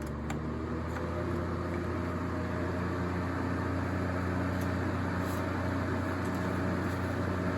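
Duracraft DT-50 table fan running up to medium speed after a light click: a steady motor hum and blade whoosh that gradually get louder and noisier as the blade picks up speed.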